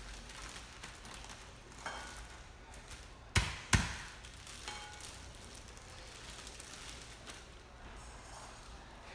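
Two sharp thuds about a third of a second apart, with a few lighter knocks before and after: pretzels being smashed in a bag to crush them into crumbs.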